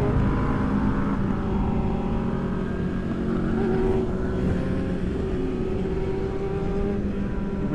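Yamaha R6 sportbike's inline-four engine running while it is ridden, its pitch shifting a little with throttle. Wind rumble on the helmet microphone.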